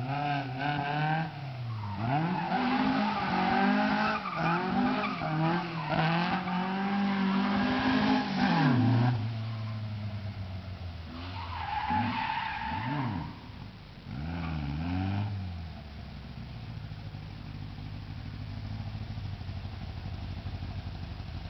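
VW 1303 Beetle's 1835 cc air-cooled flat-four engine revved repeatedly, its pitch rising and falling, for about the first nine seconds, then settling to a steady idle. It is blipped twice more, briefly, and idles on.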